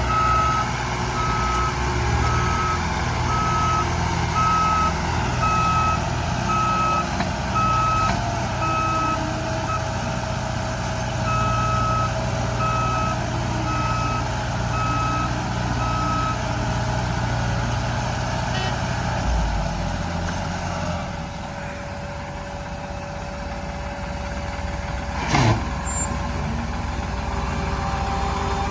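Heavy diesel tractor engine running hard, easing off about two-thirds of the way through, with an electronic beeper sounding about once a second for the first half. The beeper pauses briefly and then stops.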